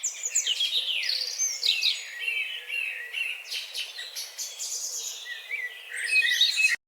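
Birds chirping and singing, many quick overlapping calls with rapid rising and falling notes, cutting off abruptly near the end.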